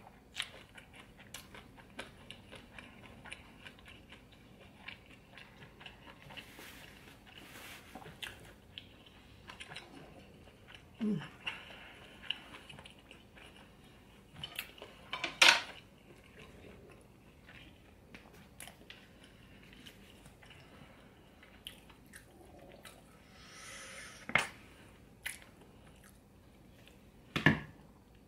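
Close-miked chewing and wet mouth sounds of a person eating, with scattered small clicks and a few louder sharp knocks, one about halfway through and one near the end.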